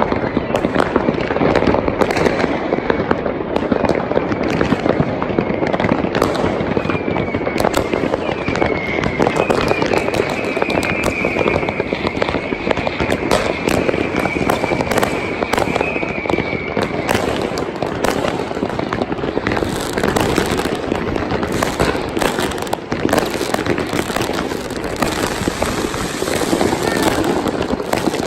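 Fireworks and firecrackers going off in a dense, continuous barrage of crackling and bangs. A high, wavering whistle runs for about ten seconds in the middle.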